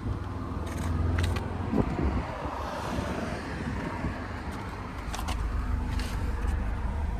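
Car engine idling with a steady low hum, with a few light clicks about a second in and again near five and six seconds.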